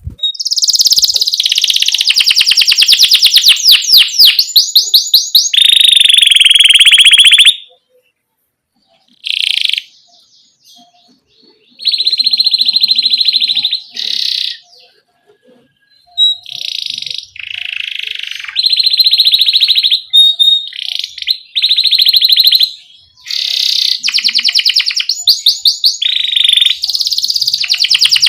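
Domestic canary singing in long rolling trills: runs of fast repeated high notes, phrase after phrase, broken by short pauses.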